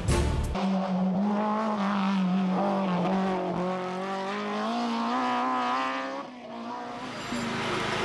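BMW M3 rally car's four-cylinder engine held at high revs, its pitch climbing slowly for about five seconds before easing off around six seconds in.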